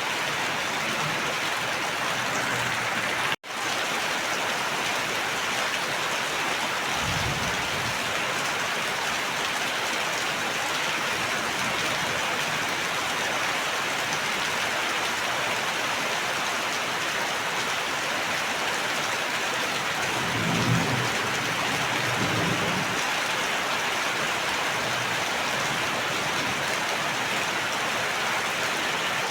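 Steady rain falling, with low rumbles of thunder twice: briefly about seven seconds in and again around twenty to twenty-three seconds. The sound drops out for an instant about three seconds in.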